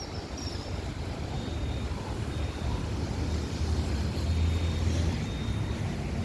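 Low, steady rumble of an arriving Boeing 787-9 airliner's jet engines heard from the ground, slowly growing a little louder, mixed with wind buffeting the microphone.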